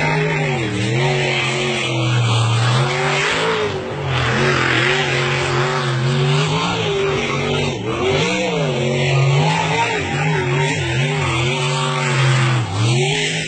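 Racing car engine driven hard on a timed run, its revs rising and falling again and again through gear changes and corners, over a loud rushing hiss.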